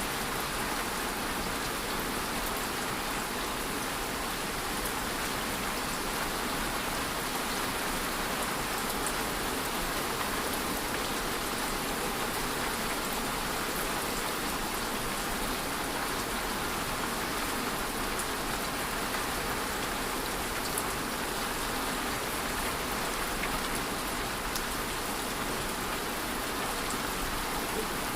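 Steady rain falling: an even hiss with faint scattered ticks of individual drops.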